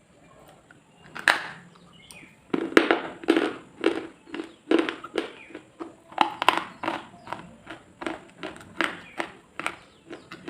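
Close-up crunching of crisp food being bitten and chewed: one sharp crunch about a second in, then a steady run of crunches at roughly two a second.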